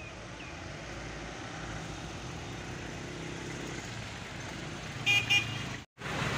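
A vehicle horn sounds two short toots about five seconds in, over a steady low rumble of road traffic. The sound cuts out briefly just after, then returns as a louder, noisier background.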